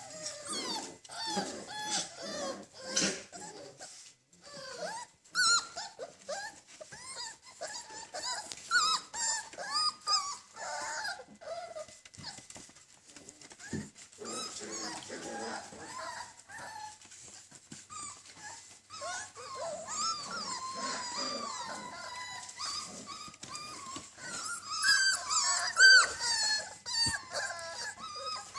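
Six-week-old puppies whining, yipping and growling, many short squeaky calls overlapping.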